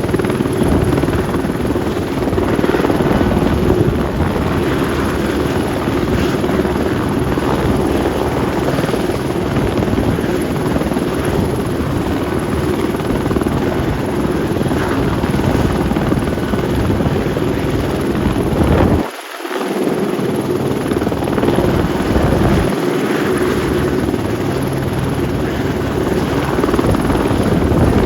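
Turbine helicopter's engine and rotor running loudly and steadily, with a brief dip in the low end about two-thirds of the way through.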